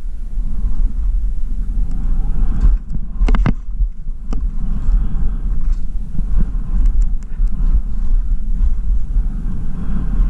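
Wind rumbling on the microphone of a camera carried by a skier, with skis hissing and scraping over snow and a few sharp clicks, two close together about three seconds in and another about a second later.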